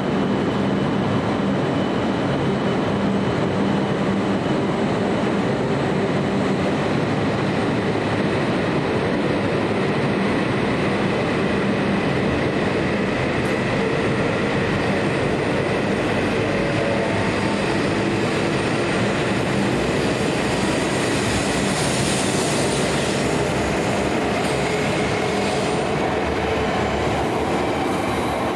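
JR East E5 series Shinkansen pulling out of the platform and gathering speed, its cars rolling past in a steady rumble and hiss.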